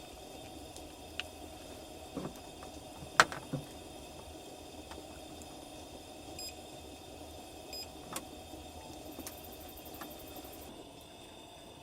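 Campfire burning with scattered sharp crackling pops over a steady low rush, the loudest pop about three seconds in.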